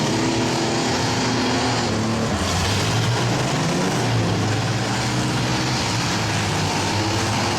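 Engines of several demolition-derby mini trucks, minivans and SUVs running and revving together: a steady, loud mix of engine noise.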